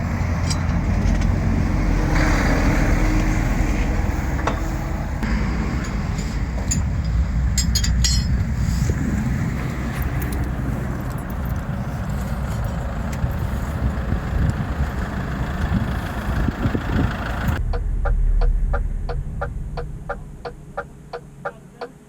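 Motorway traffic and idling vehicle engines, a dense low rumble. Near the end it gives way to a quieter truck cab where the hazard-light flasher ticks steadily over a low hum.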